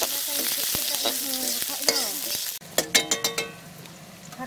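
Sliced onions, garlic and dried red chilli sizzling in hot oil in a steel wok while a spatula stirs and scrapes them. The sizzle cuts off suddenly about two and a half seconds in, followed by a few sharp clicks.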